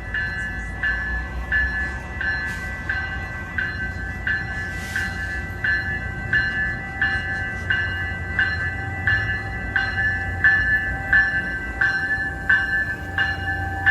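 Railroad grade crossing bell ringing steadily, about three strikes every two seconds, over the low rumble of a departing Tri-Rail commuter train.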